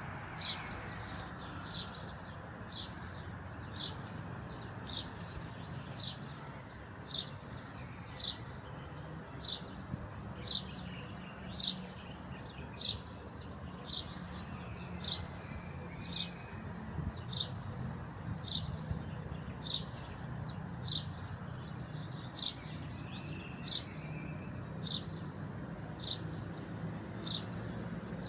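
A bird repeating a short, high, single-note chirp about once a second, very evenly, with a few fainter calls between, over a steady low background noise.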